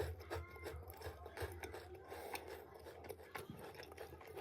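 Close-miked chewing of a Dubai chewy cookie: soft, irregular wet mouth clicks and smacks.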